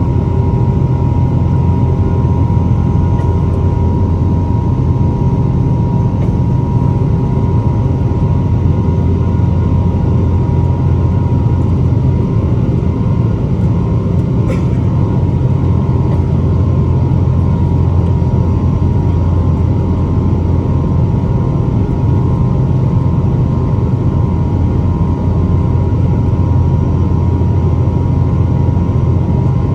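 Boeing 777-300's engines and airflow heard as steady cabin noise from a window seat in flight: a deep even rumble with a steady tone on top, and a faint click about halfway through.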